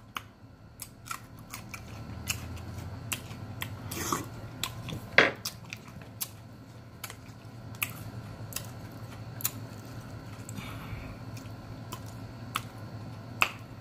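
A person chewing a mouthful of smoked chicken leg close to the microphone: irregular wet mouth clicks and smacks, several a second at times, over a faint low steady hum.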